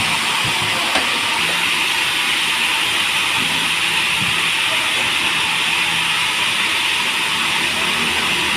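Sawmill saw running with a steady, even hiss.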